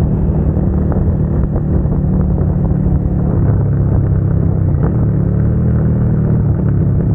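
Suzuki SV650's V-twin engine running through an aftermarket Dominator GP exhaust at steady cruising revs, heard from the rider's position on the moving bike.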